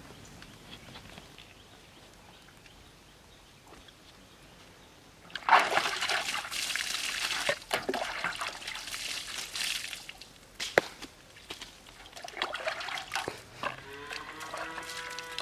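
Water being poured and splashing. It starts suddenly about five seconds in, runs for about five seconds, and further, quieter splashes follow.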